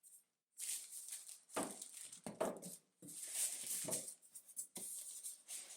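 Rustling and handling of packaging as vacuum accessories are taken out of the box: a run of short, irregular rustles and scrapes.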